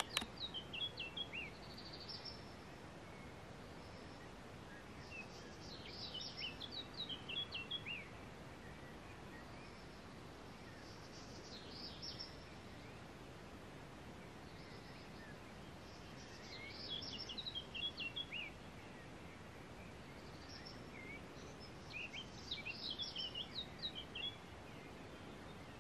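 A songbird singing short phrases of quick, high chirping notes, one phrase every five or six seconds, five in all, over a steady faint hiss. A sharp click at the very start.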